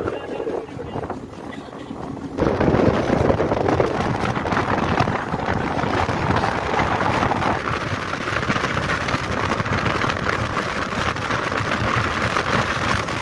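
Running noise of an ICF passenger coach in motion: a steady rush and rumble of wheels on track, with wind. It jumps abruptly louder about two seconds in and stays loud.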